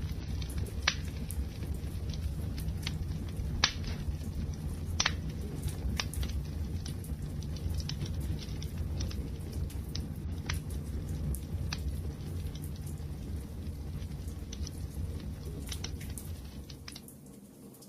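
Wood fire burning with a steady low rumble and scattered sharp crackles and pops. The sound fades down briefly near the end.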